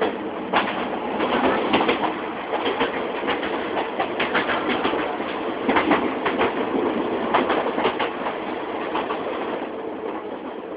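Passenger train running, heard from inside the carriage: a steady rumble with frequent irregular clacks and rattles.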